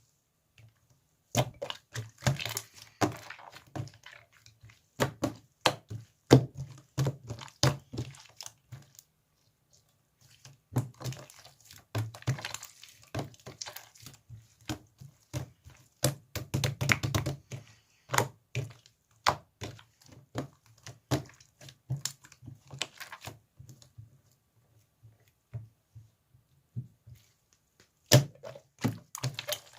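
Slime being squeezed, pressed and stretched by hand: irregular sticky clicks and small pops in quick clusters, with a couple of short quiet pauses.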